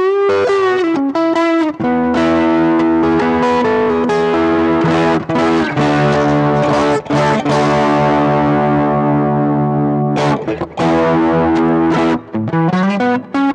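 Electric guitar playing through a Behringer GDI21 amp-simulator pedal and a Cuvave ODrive Blues overdrive, with an overdriven, tube-amp-like tone. A few bent, vibrato single notes give way to a chord held for several seconds, then short notes near the end.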